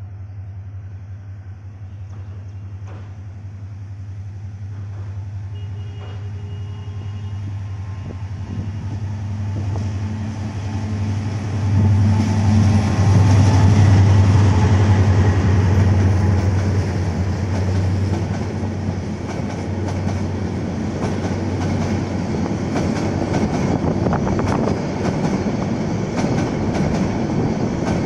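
Meter-gauge EMD diesel-electric locomotive approaching with a low engine drone that grows louder and peaks as it passes close by about halfway through. It is followed by passenger coaches rumbling past, their wheels clattering over the rail joints.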